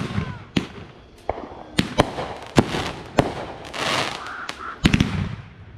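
Fireworks going off: a string of about ten sharp bangs, with a crackling stretch a little past the middle and a quick cluster of reports near the end.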